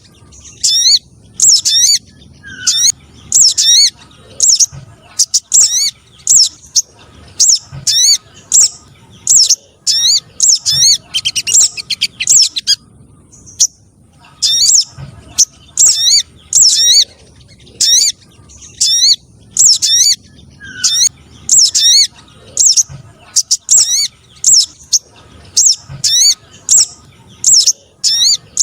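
Spiderhunter (sogon trotol) calls played as a lure: short, sharp, high chirps repeated about twice a second, with a brief pause about halfway through.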